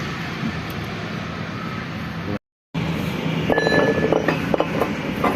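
A steady mechanical drone. After a brief dropout about two and a half seconds in, it gives way to repeated metallic clinks and knocks from tools and tractor gearbox parts being handled.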